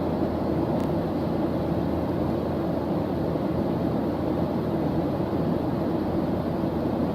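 Steady white-noise background track: an even, unchanging rush, deep rather than hissy.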